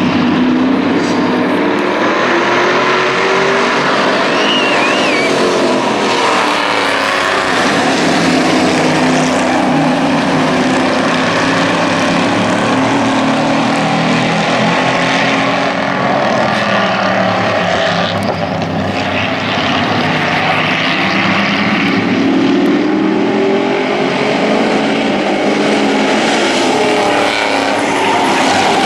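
A pack of hobby-class race trucks running laps, engines swelling and rising in pitch as they come through the corner and falling away after, over and over.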